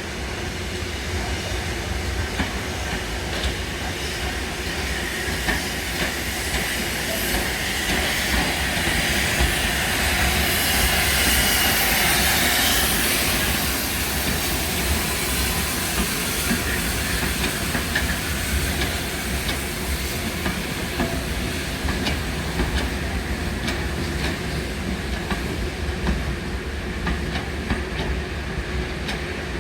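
A train running, with a steady low rumble and a hiss that swells and fades around the middle.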